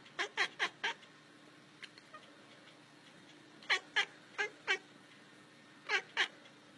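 Domestic cat giving quick, short meows in three bursts: five, then four, then two. Each call falls in pitch.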